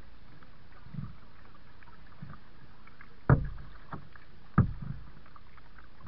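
Kayak paddle strokes: the blade dipping and pulling through the water in a slow rhythm, with two sharp splashes standing out in the second half, over a steady hiss of moving water.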